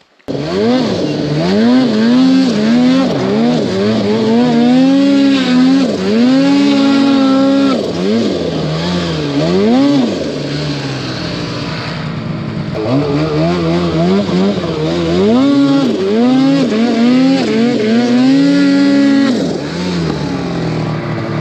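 Snowmobile engine revving hard, its pitch climbing and falling back over and over as the throttle is worked. The revving lets up for a few seconds near the middle, then starts again.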